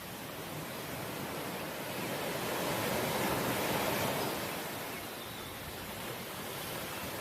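Ocean waves breaking on the shore, one wave swelling to a peak a few seconds in and then washing back.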